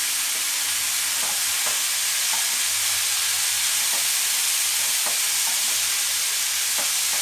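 Mushrooms, capsicum and green chillies sizzling steadily in a frying pan over high flame, with a few light scrapes and taps of a spatula stirring them.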